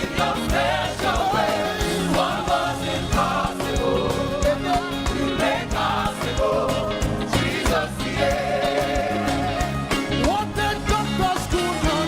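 Live gospel praise music: a band with a steady drum beat under voices singing a praise chorus.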